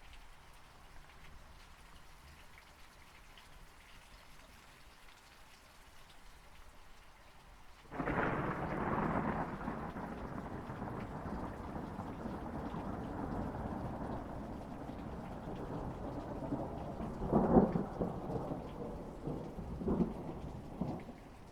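Steady rain falling, then about eight seconds in a thunderclap breaks into a long rolling rumble over the rain. Two louder cracks come near the end before the thunder dies back.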